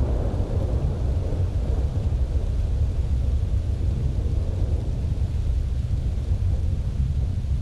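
A deep, steady rumble, with a noisy wash in the middle range that swells at the start and fades away over the first few seconds.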